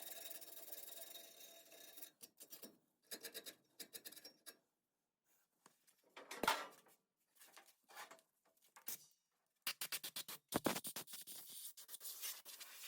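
Sandpaper rubbed by hand on a rusty, pitted steel brace: scratchy strokes in short spells with pauses, one sharp knock about halfway, and a quick run of strokes near the end.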